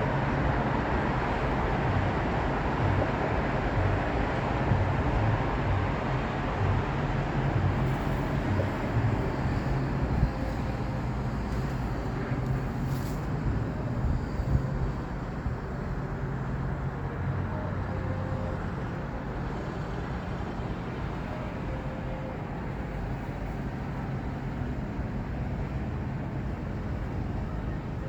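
Steady low outdoor rumble, like distant traffic, that eases off slightly over the stretch.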